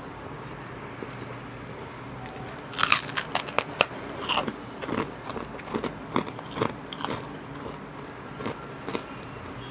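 Crunching bites into chicharon (crispy pork cracklings): a quick run of sharp crackling crunches about three seconds in, then slower chewing crunches that thin out toward the end.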